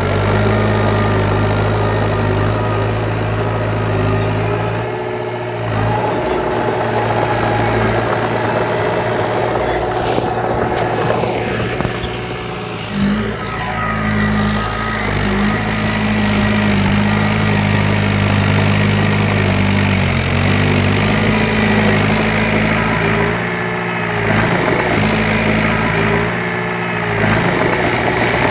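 Heavy diesel engine of earthmoving machinery running steadily, its pitch dropping and picking up again several times as the load changes.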